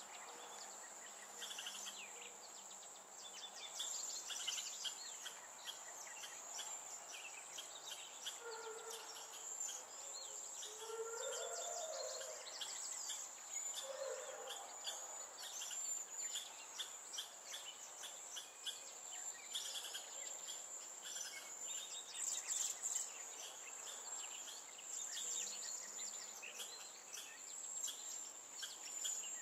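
Wild songbirds chirping and calling in many short notes over a steady, high-pitched insect drone, with a few lower, swooping calls near the middle.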